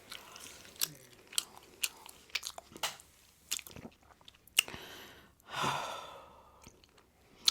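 Close-miked chewing of pizza: many sharp wet mouth clicks and small crunches, with one louder burst of noise lasting under a second a little past the middle.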